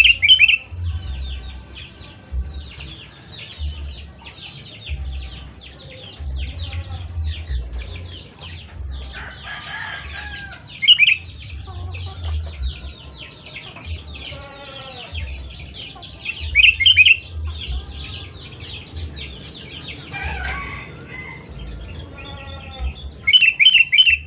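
Sooty-headed bulbul (kutilang) calling loudly, with four louder phrases standing out over a continuous chatter of quick chirps.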